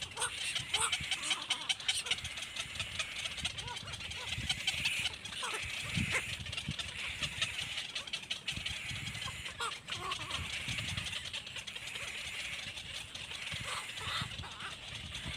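Baby birds cheeping continuously in a high, dense chatter, with a few soft low thumps here and there.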